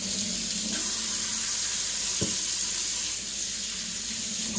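Tap water running steadily into a sink, as when rinsing a diamond flattening plate loaded with stone swarf. A single light knock about two seconds in.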